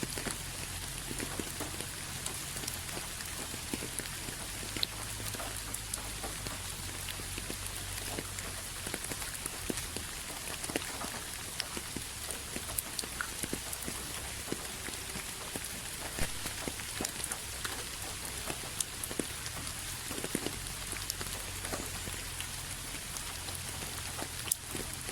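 Steady rain falling, an even hiss dotted with many individual drops pattering and ticking on a surface.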